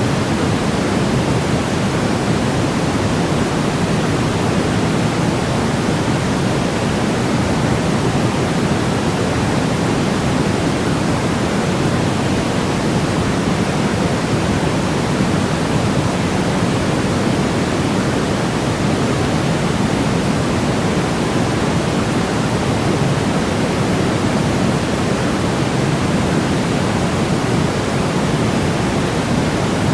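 Continuous white-noise track for baby sleep: a steady, unchanging rush with no breaks or events, its weight in the lower range and softer in the highs.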